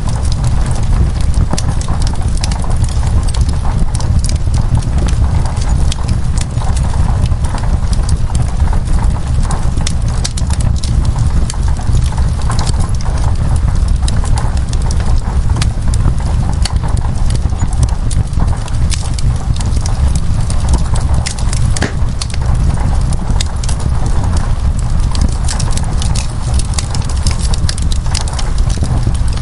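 Wood fire crackling with frequent sharp pops and snaps over a steady rush of rain on window glass, with a deep rumble underneath.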